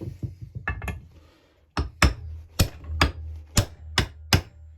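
Sharp knocks, a couple near the start and then about seven hard ones roughly every half second, as a heated chainsaw crankcase half is struck to free its main bearing.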